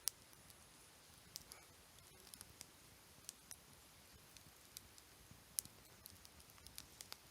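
Wood campfire crackling quietly: scattered sharp pops and snaps over a faint hiss, with two louder pops, one right at the start and one about five and a half seconds in.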